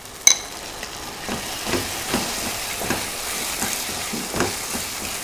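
Curry paste and tomatoes sizzling in a hot pan, with a wooden spoon stirring and scraping through the mixture in repeated strokes. A sharp metallic clink sounds just after the start, as the spoon knocks the pan.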